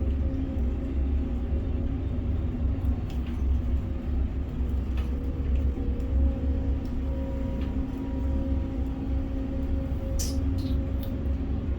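Container crane machinery running with a steady low rumble and hum. A couple of brief, sharp high sounds come about ten seconds in.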